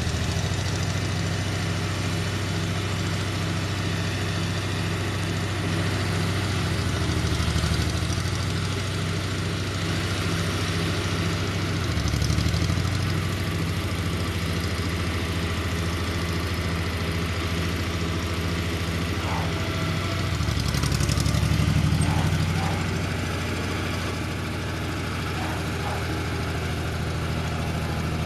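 Tractor engine running steadily at low speed, its pitch and loudness rising briefly three times as the throttle changes.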